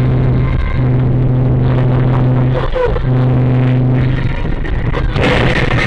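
Car engine noise: a steady low hum that breaks off briefly twice, then a change in the sound about five seconds in.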